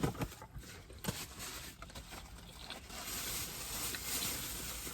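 Eating sounds close to the microphone: chewing with small wet mouth clicks, and a soft rustling hiss that sets in about three seconds in.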